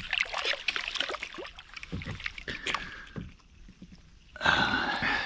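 Water splashing and small knocks on a kayak as a hooked small bass is fought to the boat, with a louder burst of splashing lasting just under a second near the end.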